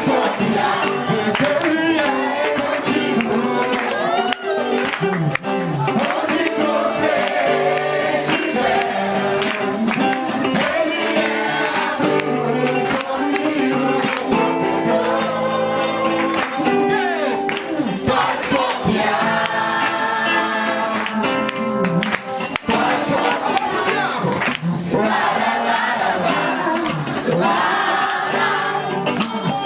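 Live gospel worship music: a congregation singing along with a band, with a tambourine shaking steadily.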